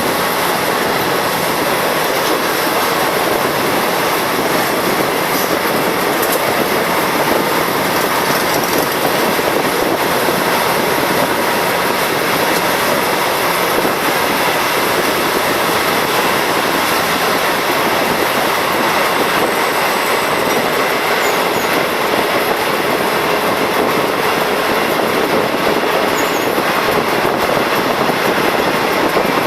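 A train running steadily along the rails: a continuous loud rush of wheel and track noise that holds even throughout.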